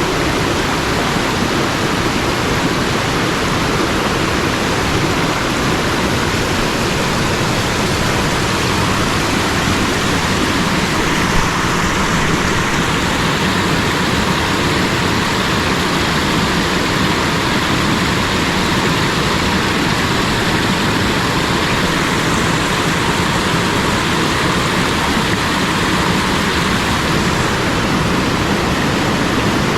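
Steady rush of fast-flowing mountain stream water tumbling over rocks, a constant loud hiss without pause.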